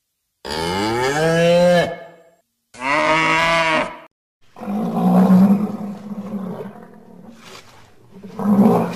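A cow mooing twice, two long calls of about a second and a half each that bend in pitch. These are followed, about halfway through, by a rougher, noisier animal call that swells again near the end.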